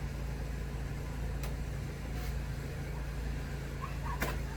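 Wire stripping machine running with a steady low hum while brittle old insulated copper wire is fed through it, with a few sharp clicks.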